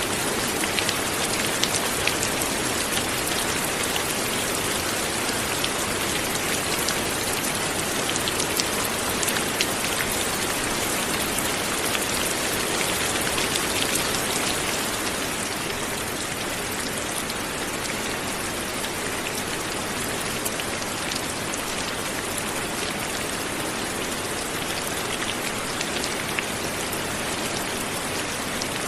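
Steady light rain falling on a surface, an even hiss with many small drop ticks; it eases slightly about halfway through.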